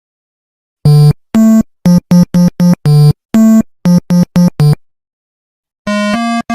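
Electronic synthesizer tune of separate short and longer notes, starting about a second in, breaking off for about a second, then resuming near the end with an even run of notes.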